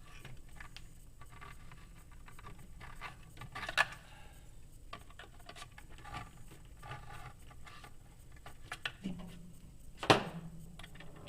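Scattered small clicks and knocks of hand work on a plastic RC model part. A sharper knock comes about four seconds in, and the loudest about ten seconds in.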